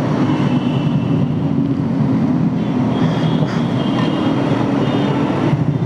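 Motorcycle engine running at low speed in slow traffic, with wind and road noise on the mic, a steady rumble.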